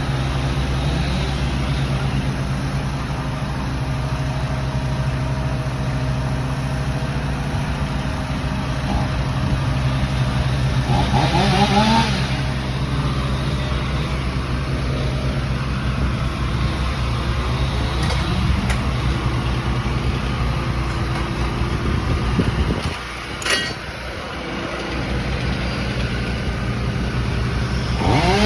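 Chainsaw engine idling steadily, revved up briefly about eleven seconds in and again at the end. A single sharp click comes near the end, while the low engine note briefly drops away.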